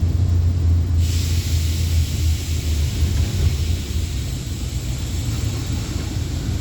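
Truck engine running steadily under way, a deep even drone, with a steady hiss that comes in suddenly about a second in.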